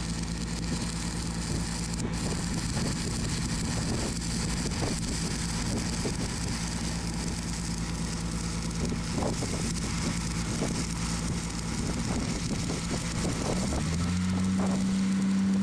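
An engine or motor running steadily at a constant pitch; about fourteen seconds in its speed steps up to a higher, slightly louder note. Faint scattered knocks sound over it.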